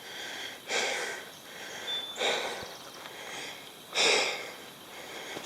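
A man's heavy breathing, three loud breaths about a second and a half apart, from the exertion of a portage.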